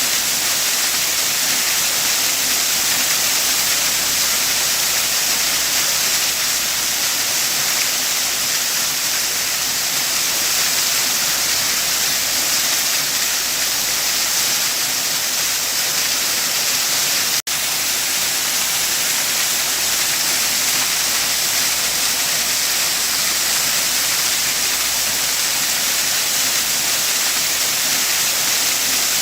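Waterfall: a steady, hissing rush of falling water. It cuts out for an instant about seventeen seconds in.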